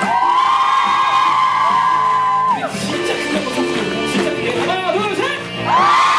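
Live musical-theatre number: voices singing a long held note in harmony over band accompaniment, then a quick run of moving notes, and a new held note rising in just before the end.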